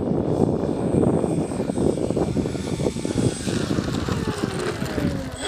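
Electric motor and propeller of a Dynam Beaver RC plane in flight, heard through strong wind buffeting the microphone; in the second half its whine drops steadily in pitch as the plane passes.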